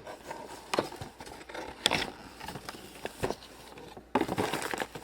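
A toy box being opened and its contents handled: scattered clicks and taps of cardboard and plastic pieces, with denser rustling of plastic packaging from about four seconds in.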